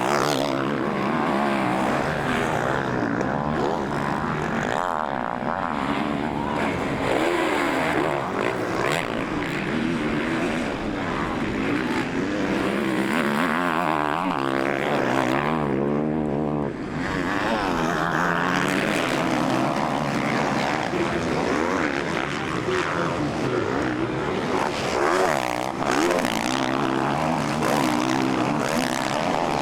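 Motocross bike engines racing, revving up and down and rising and falling in pitch, with several bikes overlapping.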